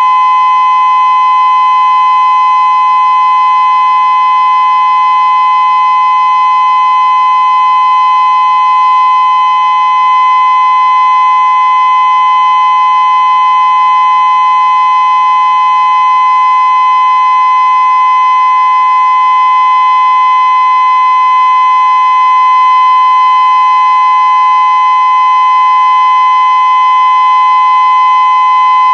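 Federal Signal Modulator 6024B electronic outdoor warning siren sounding its steady tone during a siren test: one loud, unchanging pitch with no rise or fall.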